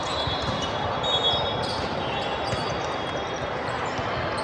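Busy indoor volleyball gym: balls thudding on the hard court floor, with short high squeaks typical of sneakers on the court, over a steady wash of indistinct crowd noise.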